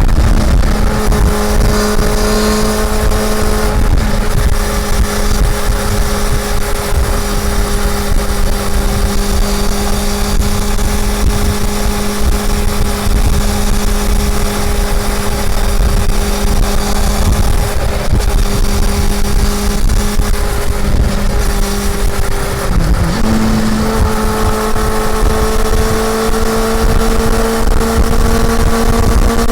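Honda CB400 Super Four's inline-four engine running under way at steady revs, with low wind rumble. About 23 seconds in the revs dip briefly, then the engine note climbs slowly as the bike accelerates.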